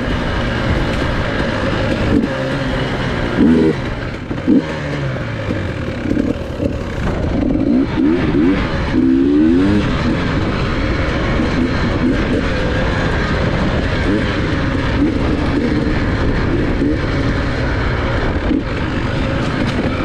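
Enduro dirt bike engine running under throttle, its revs rising and falling repeatedly as it is ridden.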